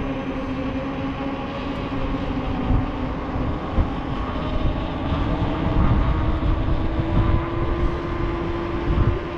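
Electric unicycle's hub motor whining with one steady tone that slowly rises in pitch as it speeds up, over gusty wind rumble on the microphone.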